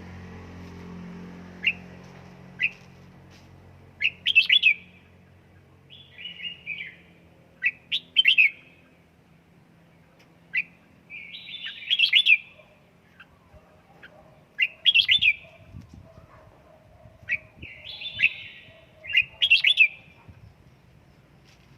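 Red-whiskered bulbul calling: short, bright chirps and warbled song phrases, one burst every second or two.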